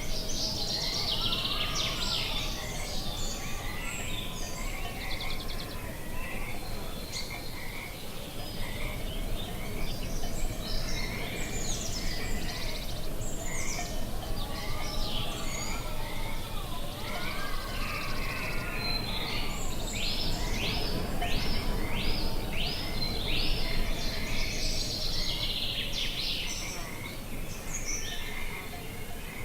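Outdoor nature soundscape: many birds chirping and calling, with a quick run of repeated notes about two-thirds of the way through, over a steady low background rumble.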